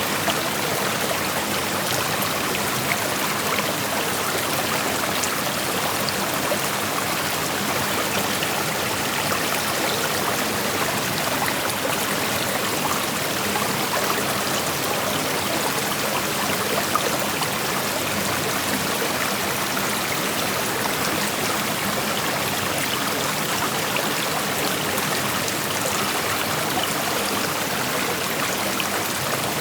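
Creek water flowing over rocks: a steady rushing with fine trickling and splashing, even throughout.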